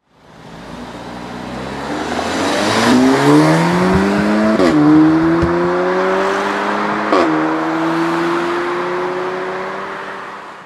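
Audi S3 sedan's turbocharged 2.0-litre four-cylinder accelerating hard, its pitch climbing through the revs. It shifts up twice, about four and a half and seven seconds in, each shift marked by a sudden drop in pitch and a short crack. After the second shift it pulls on with slowly rising revs.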